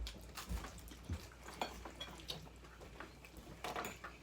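Scattered faint clinks and taps of cutlery on dinner plates during a meal, a few irregular ticks over a low steady hum.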